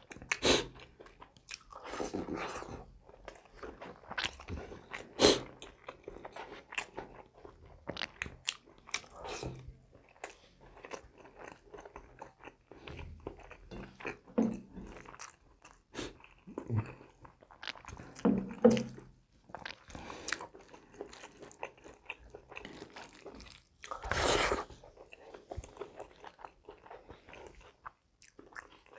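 Close-miked mukbang eating: a person chewing mouthfuls of rice and curry, with irregular crunchy bites and wet mouth sounds, a few bites standing out louder than the rest.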